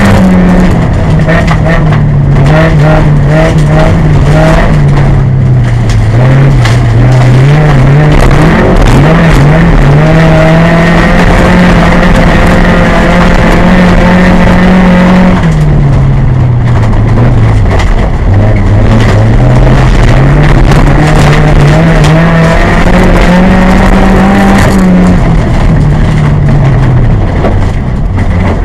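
VW Golf Mk2 autocross car's engine, heard loud from inside the cockpit as it is driven hard on a dirt track. The revs are held high, drop off twice, around the middle and near the end, and climb again each time.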